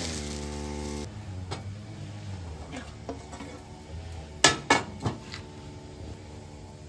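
A steady motor hum cuts off about a second in, followed by scattered sharp clinks and knocks, like pots and dishes being handled, with the loudest a quick cluster of three hits a little past the middle.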